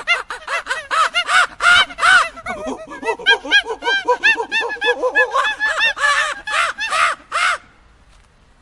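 Monkeys chattering: a rapid run of short, high calls that rise and fall in pitch, several voices overlapping, breaking off about seven and a half seconds in.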